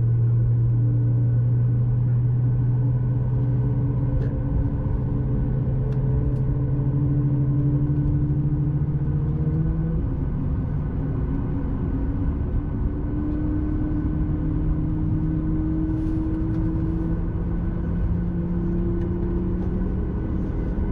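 Steady drone inside the cabin of a Boeing 737 MAX 8, from its CFM LEAP-1B jet engines and cabin systems. Humming tones slowly rise in pitch, and one of them drops back about halfway through before rising again.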